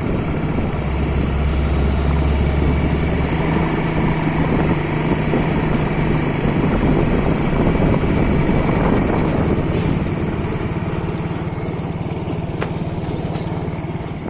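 A heavy vehicle's engine running steadily with a low hum.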